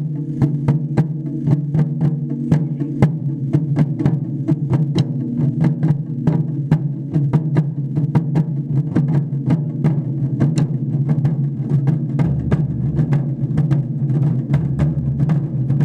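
Japanese taiko drums played by a drum group, a fast, steady run of strikes that goes on without a break.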